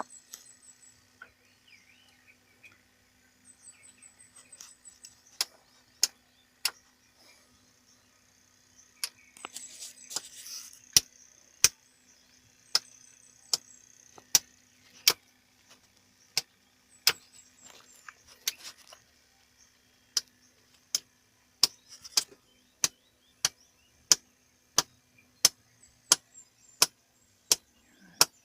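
A run of sharp taps or clicks, irregular at first, then coming evenly about twice a second in the second half, over a faint steady hum.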